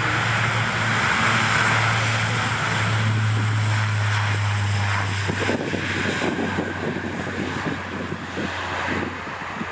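Aircraft engines running with a steady low drone that fades about halfway through, leaving wind gusting on the microphone.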